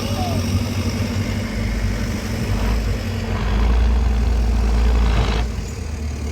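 Heavy truck's diesel engine running, working harder and louder for about two seconds past the middle before easing back.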